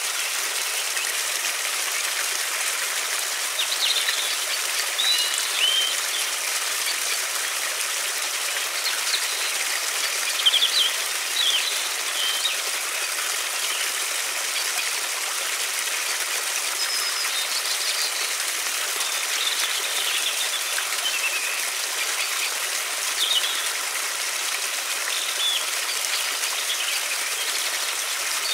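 Steady rush of flowing river water, with songbirds chirping and calling now and then over it.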